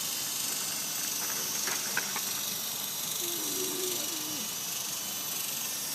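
Big Lama toy RC helicopter hovering, its small electric motors and rotors giving a steady high whine over an even hiss.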